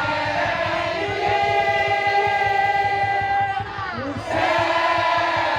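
Madurese daul (tong-tong) music: a dense drum beat under held melody notes. The melody breaks off briefly with a falling glide a little past halfway, then comes back.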